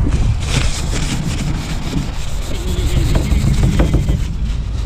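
Cloth wiping up a spilled liquid, with irregular rubbing strokes over a steady low rumble.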